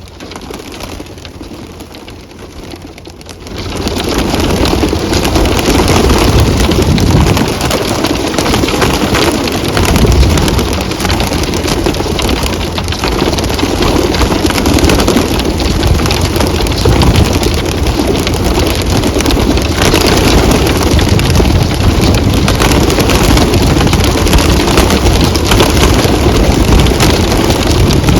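Wings of a large flock of racing pigeons flapping as the birds pour out through the loft chute: a dense, loud, steady flutter that starts suddenly about three and a half seconds in and keeps on.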